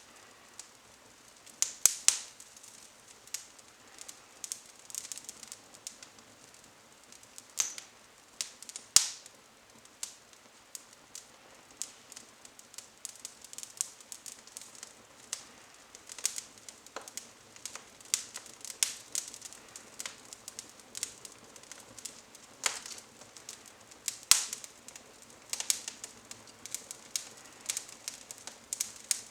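Small twigs burning in a fireplace, crackling with irregular sharp snaps and pops, a few of them much louder than the rest.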